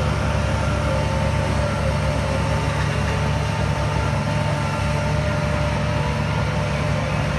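Heavy diesel engine of earthmoving machinery running steadily under load, with a faint whine held above the deep engine sound.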